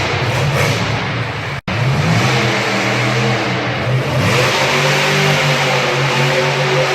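Monster truck engine revving and running at a steady held note. The sound cuts out for an instant about one and a half seconds in.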